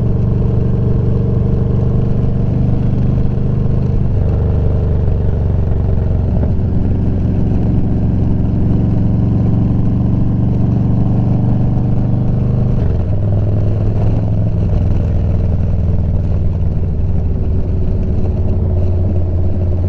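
Motorcycle engine running steadily while riding. The engine note shifts about four seconds in and drops lower about thirteen seconds in.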